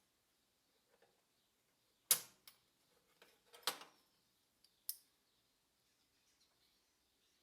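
A handful of sharp clicks and knocks of hard objects being handled, the loudest about two seconds in and the last about five seconds in.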